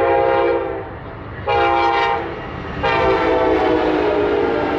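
Amtrak Hiawatha passenger train's air horn sounding a chord of several steady tones, loud: a blast that ends just under a second in, a short blast about a second and a half in, then a long blast from about three seconds in. The long, short, long run is the close of the grade-crossing horn signal.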